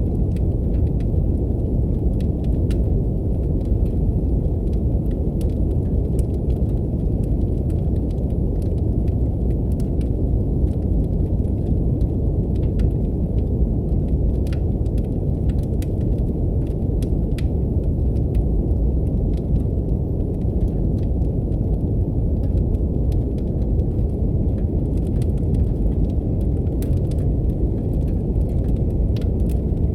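Steady brown noise, an even deep rumble, layered with the sparse, irregular crackle and pops of a fireplace fire.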